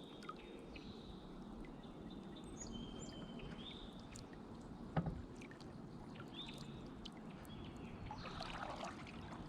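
Kayak sitting on calm water: faint water lapping and dripping against the hull, with a single sharp knock about five seconds in. Short high-pitched chirps come and go throughout.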